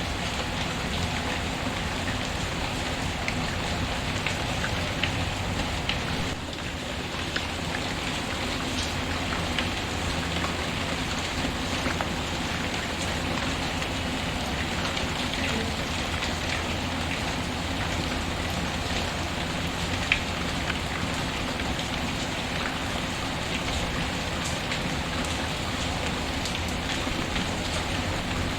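Steady rain falling, with scattered sharp crackles from a wood fire. The sound dips briefly about six seconds in.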